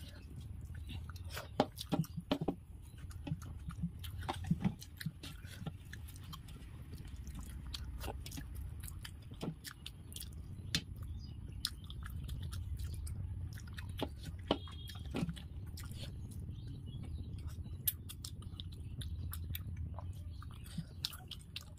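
Close-miked chewing and mouth smacks of someone eating rice and fried fish by hand, with many short sharp clicks over a low steady hum.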